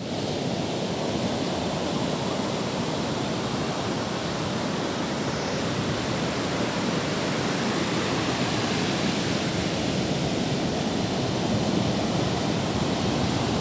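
Sea waves breaking and washing on the shore in a steady wash of noise, with some wind on the microphone.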